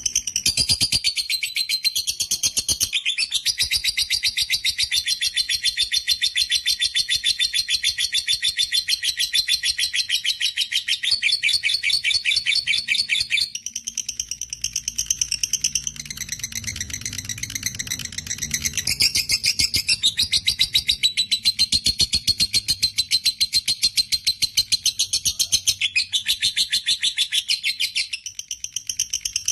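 Lovebird singing its long 'ngekek' chatter: a shrill, very rapid run of repeated notes held for many seconds at a time, breaking off briefly a few times before starting again.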